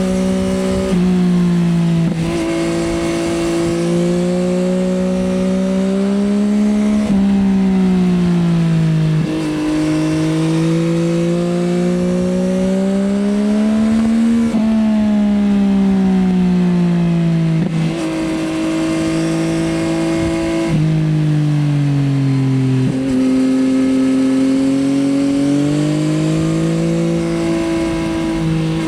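Yamaha XSR900's three-cylinder engine through an Akrapovič Racing Line exhaust, under way: the revs climb and fall over and over, dropping suddenly at several gear changes and sinking more slowly when the rider eases off.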